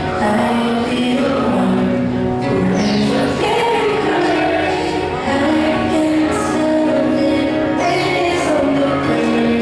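Live electronic pop music, heard from the audience: held, layered keyboard chords with a few short falling sweeps, and a woman's voice singing in a choir-like way.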